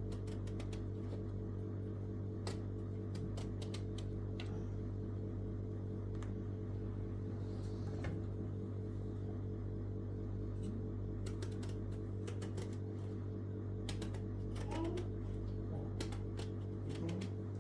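Irregular sharp clicks and taps over a steady low hum, the clicks coming in clusters, most densely in the second half.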